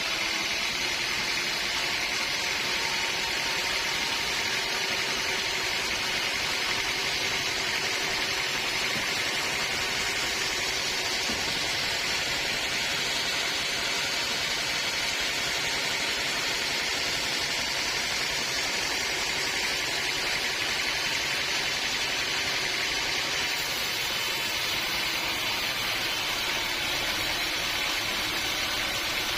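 Sawmill machinery running steadily at an even level, with no breaks or sudden noises.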